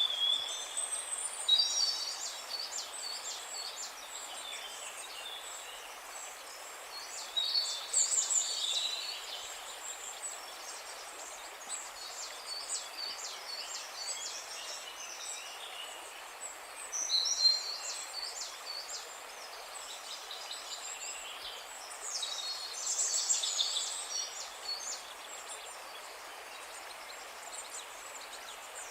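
Birds singing: several bursts of rapid high-pitched chirps and trills a few seconds apart, over a steady background hiss.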